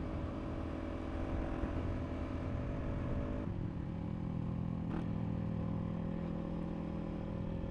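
KTM RC390 single-cylinder engine running steadily, heard from the rider's own bike. Its pitch steps down a little about three and a half seconds in.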